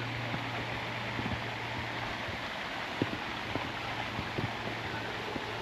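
Hikers' footsteps on a dirt and rock trail: irregular light crunches and clicks over a steady rushing hiss and a low hum.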